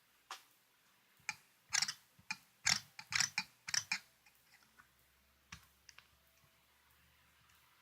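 Irregular clicks and taps of small plastic parts being handled and pressed together by hand: about a dozen crowded into the first four seconds, then two or three faint ones.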